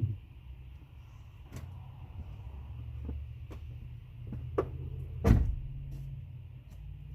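Acura Integra engine idling with a low, steady hum, over several sharp clicks and knocks, the loudest about five seconds in.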